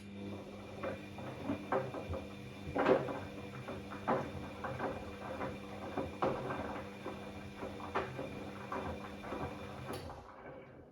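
Bosch Classixx 6 front-loading washing machine turning its drum during the early wash and load-sensing stage: a steady motor hum with the laundry tumbling and knocking irregularly inside the drum. It starts abruptly and stops about ten seconds in, one turn of the drum's start-stop wash rhythm.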